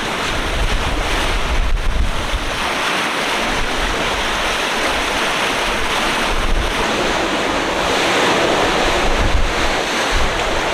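Wind and sea waves rushing steadily past a sailing yacht under way, with wind buffeting the microphone in a low, uneven rumble.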